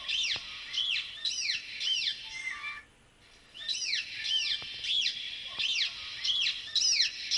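Recorded dolphin whistles played back from a video: quick arched chirps that rise and fall, several a second, in two runs with a short break about three seconds in.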